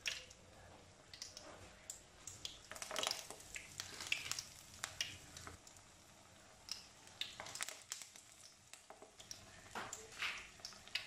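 Besan-battered onion slices deep-frying in hot oil in a karahi: an irregular crackling sizzle with sharp pops, flaring up in spells as more battered slices go into the oil.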